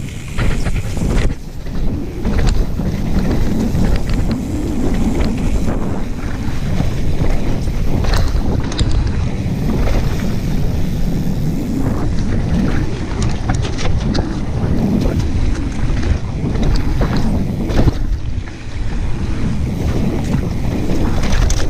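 Wind rushing over the camera microphone on a mountain-bike descent, a steady loud rumble with scattered short clicks and rattles from the bike over rough trail.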